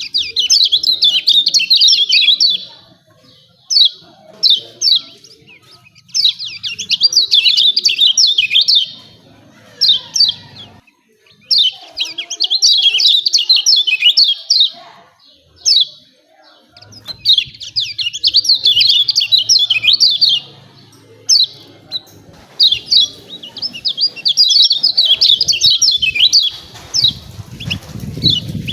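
Kecial kuning, a white-eye, giving its fast chattering 'ciak ciak' call: bursts of rapid, high chirps a second or three long, separated by short pauses with single chirps.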